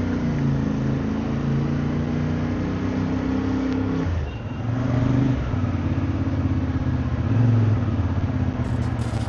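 Motorcycle engine running under way. The engine note drops briefly about four seconds in, then picks up again.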